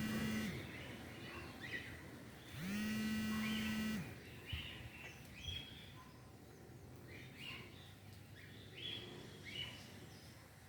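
Birds chirping now and then over a steady background. Two long, steady buzzing tones are louder than the chirps: a short one at the very start and a longer one from about two and a half to four seconds in.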